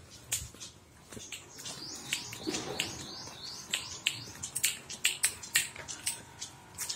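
Birds chirping: many short, sharp calls, with a run of quick rising notes about two to three seconds in.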